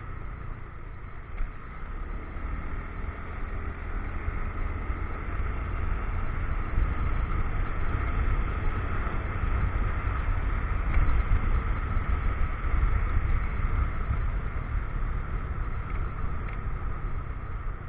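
Motorcycle on the move: its engine running under way, with rumbling wind buffet on the helmet-mounted action camera's microphone and road noise. It grows somewhat louder a few seconds in and is loudest around the middle.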